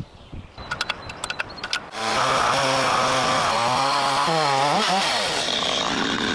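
A few sharp clicks, then a chainsaw running for about four seconds, its engine pitch wavering and dipping as it cuts wood before it stops near the end.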